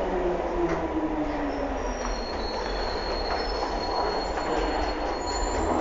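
London Underground C stock train running, with a steady low rumble of wheels on rail. A falling motor whine fades about a second in, and thin high wheel squeal sets in from about two seconds in.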